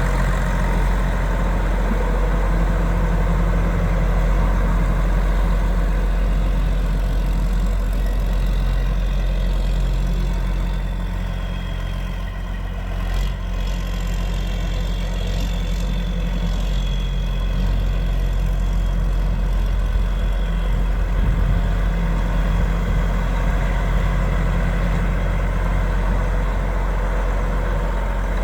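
Diesel engine of a 2004 John Deere 9520 4WD tractor idling steadily with a deep, even hum, and a faint high whine partway through.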